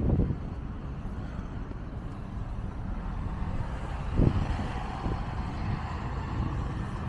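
Street traffic, with a vehicle going by that swells and fades between about three and six seconds in, under a steady low rumble of wind on the microphone. A few dull low thumps stand out, the loudest about four seconds in.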